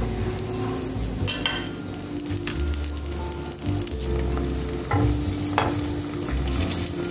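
Murtabak frying in a little oil in a non-stick frying pan, a steady sizzle, with a few short clicks about a second in and again later on.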